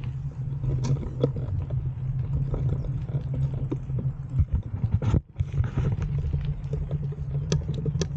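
Bike riding over a rough trail: a steady low rumble with frequent clattering knocks and rattles from the ground.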